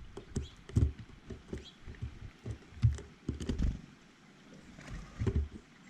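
Irregular taps and soft thumps of small birds landing and pecking on a feeder close to the microphone, quieter for a moment about four seconds in, with a few faint chirps.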